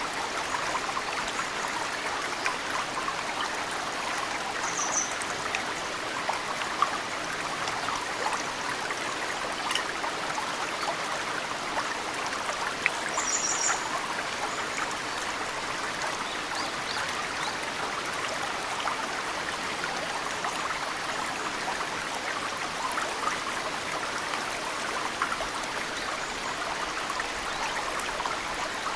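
Mountain stream running steadily, with snowmelt droplets dripping into the water as many small plinks. Two brief high bird chirps come through, about five seconds in and near the middle.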